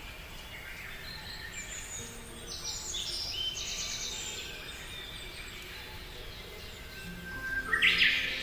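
Small birds chirping and trilling in quick high notes, loudest in a burst near the end, over background music.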